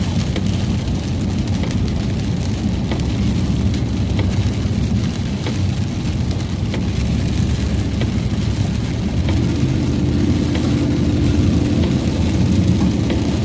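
Vehicle driving in rain: a steady low road-and-engine rumble with scattered raindrop ticks hitting the body. A steady low hum joins about nine seconds in.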